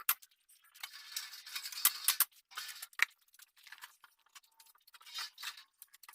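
Irregular rustling and scraping with scattered light clicks and taps from hand work, busiest about a second in.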